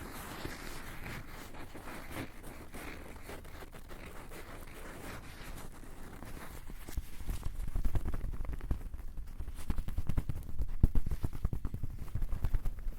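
Close-miked ASMR trigger sounds on a Tascam recorder: scratchy rustling at first, then from about seven seconds in a run of louder low thumps and bumps.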